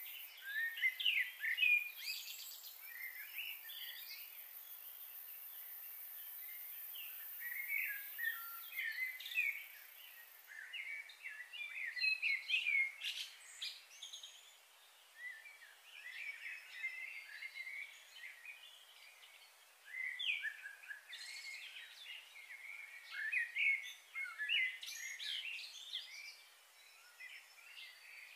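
Birds chirping and calling, many short overlapping calls that come in busier spells.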